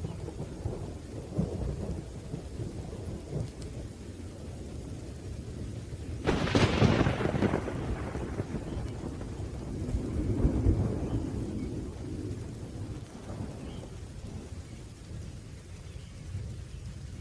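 Thunderstorm: rain with low, rolling thunder. A sharp thunderclap breaks about six seconds in and rolls away over a couple of seconds, and another rumble swells around ten seconds.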